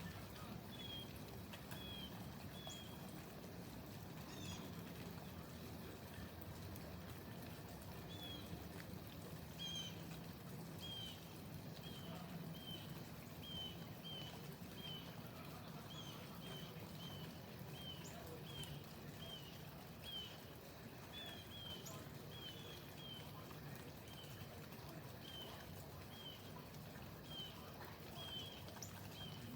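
A bird calling faintly with short, high chirps repeated about once or twice a second, over a low steady hum.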